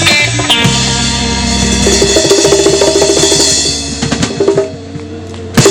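Live band playing the close of a song: drums rolling under held guitar and bass chords. The sound thins out, then one sharp final hit comes near the end.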